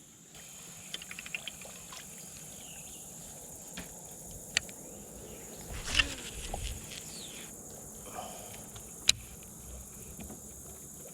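Steady high-pitched insect chorus, with scattered sharp clicks and a louder knock about six seconds in.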